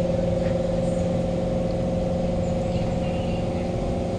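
Steady hum inside a stationary Kawasaki Heavy Industries C151 MRT train with its doors open: the train's onboard equipment drones with a couple of constant tones over a low rumble.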